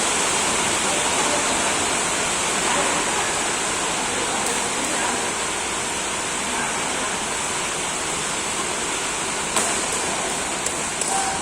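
Steady rushing background noise, with a few sharp clicks of badminton rackets striking the shuttlecock, once about halfway through and a couple near the end.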